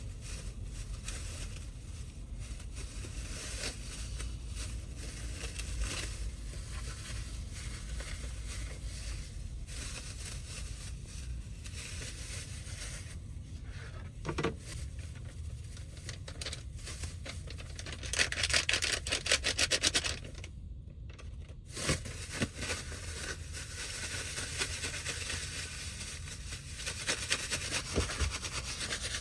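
Steady rain on the roof of a Toyota HiAce van, heard from inside, with crinkling and scraping of a plastic bag being handled. About eighteen seconds in comes a louder, dense crackling stretch, and then the sound drops out for a moment.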